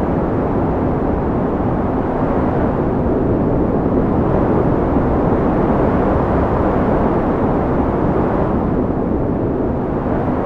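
Wind blowing in a steady, low rush that swells a little in the middle and turns duller near the end.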